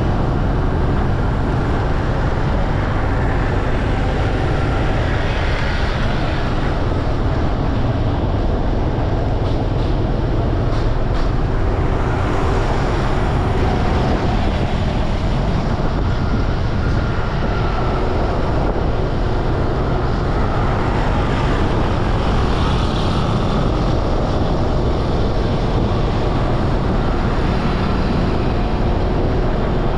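Steady road noise of a motorbike ride through traffic: engine and tyre noise running without a break.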